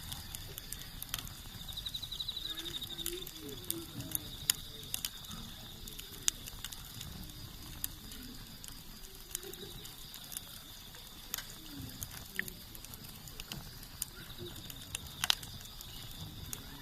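Wood campfire burning: irregular sharp crackles and pops from the burning wood over a low rumble, with the loudest pops about four and a half seconds in and near the end.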